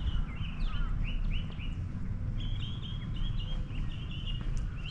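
A bird chirping: a run of short, quick chirps, pausing briefly and then coming faster from about halfway through, over a low steady rumble.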